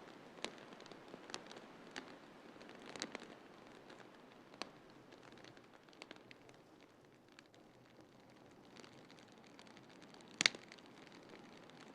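Wood fire crackling in a fireplace: scattered sharp pops and snaps, one loud pop about ten seconds in, over a steady soft hiss.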